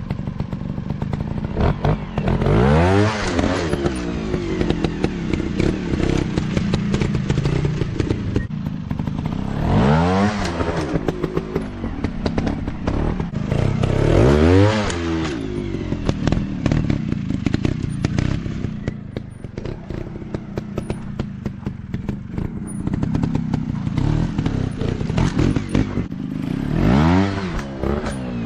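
Off-road dirt bike engines revving in repeated surges, pitch climbing and dropping about four times, with a dense clatter of small knocks throughout.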